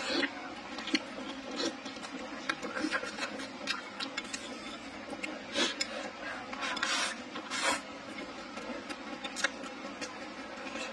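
Close-miked eating sounds: a mouthful of meat and rice being chewed, with irregular wet smacks and clicks, over a faint steady hum.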